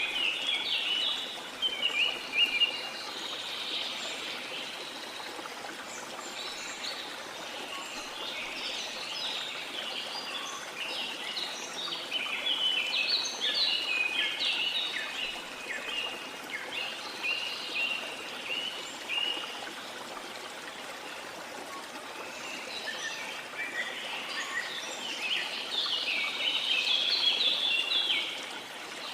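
A river flowing steadily, with forest birds chirping and twittering over it in busy spells near the start, through the middle and again near the end.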